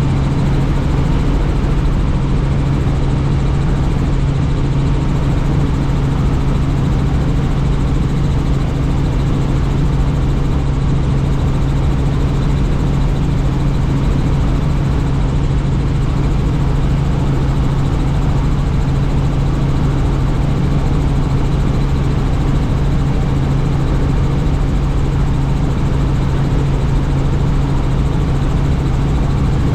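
Helicopter in steady cruise flight, heard from on board: a continuous, unchanging drone of rotor and turbine with a low rumble and rushing air noise.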